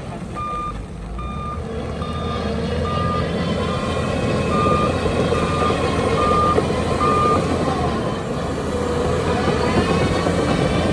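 Backup alarm of a reversing heavy machine beeping at one steady pitch, about one beep every three-quarters of a second, stopping about two-thirds of the way through, over the steady rumble of diesel engines.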